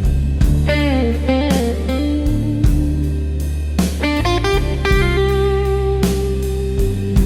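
Instrumental blues: an electric guitar plays a lead solo with bending, sliding notes over a steady bass line and drum beat.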